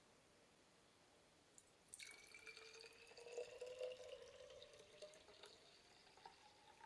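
Liquid poured into a vessel, its pitch rising steadily as the vessel fills. It is faint and starts about two seconds in.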